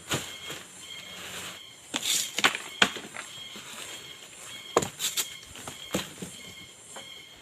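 Irregular sharp knocks and cracks, bunched in three or four groups, over faint steady high-pitched tones.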